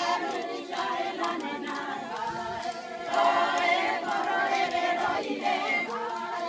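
A group of women singing together unaccompanied, many voices carrying the melody.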